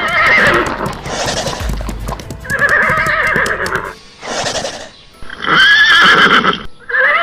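Horse neighing: several quavering whinnies in a row, each about a second long.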